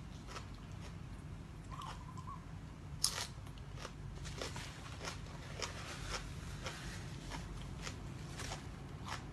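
A person eating crunchy food close to the microphone: irregular crunching bites and chewing, with one sharper, louder crunch about three seconds in.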